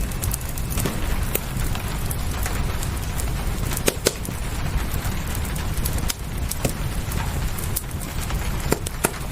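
Wood fire crackling, with irregular sharp pops, over a steady hiss of rain and a low rumble.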